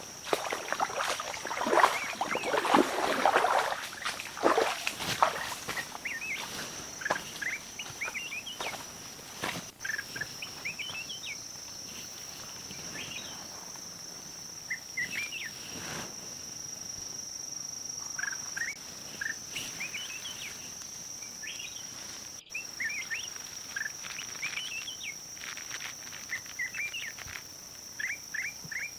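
Small birds chirping in short, rising calls scattered throughout, over a steady high-pitched insect drone. Rustling footsteps through undergrowth in the first few seconds.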